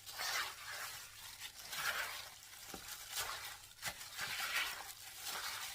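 Wet, squishy stirring and mixing of food in a bowl, in irregular swishes with a few light clicks.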